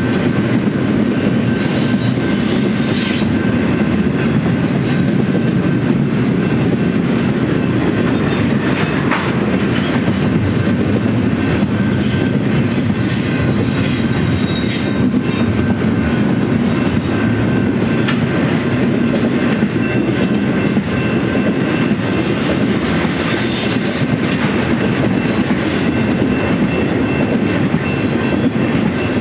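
BNSF intermodal freight train's double-stack container and trailer cars rolling past: a loud, steady rumble of steel wheels on rail, with brief high wheel squeals now and then.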